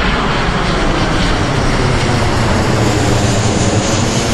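Twin-engine Boeing 777 airliner passing low overhead on its landing approach: loud, steady jet engine noise, with a high whine growing stronger near the end.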